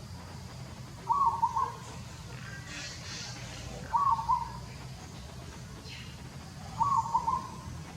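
A bird calling: a short phrase of a few quick notes, repeated three times about three seconds apart, over a steady low background rumble.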